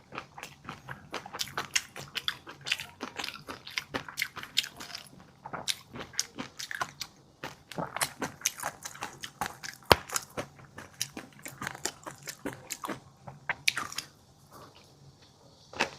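Close-up eating sounds: a person chewing crunchy food, with many quick, irregular crackles and clicks, one sharp click about ten seconds in, and a quieter pause near the end.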